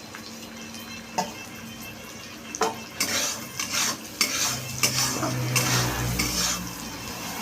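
A metal utensil stirring and scraping onion and green chillies frying in oil in a pan: a couple of taps at first, then a run of quick scraping strokes from about three seconds in.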